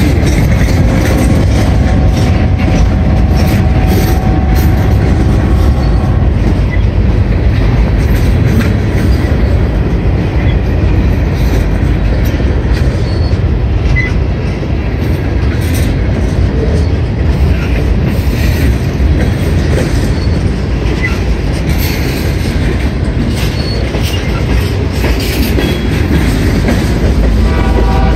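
CSX freight train's open-top hopper cars rolling past close by as the train pulls away: a steady heavy rumble with scattered wheel clicks and clanks.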